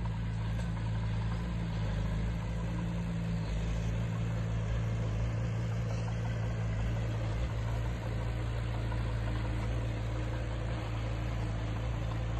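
Diesel engine of heavy earthmoving equipment running steadily at a low, even hum, with no revving or distinct impacts.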